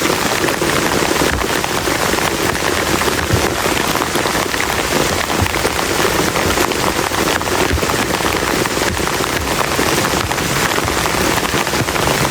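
Heavy rain falling steadily on a camp tarp shelter: a dense, even hiss of close raindrop strikes with no let-up.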